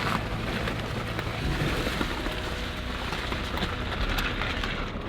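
Stryker Hunter Jet 420 inflatable boat under way: a steady low engine hum under a constant hiss of water and wind.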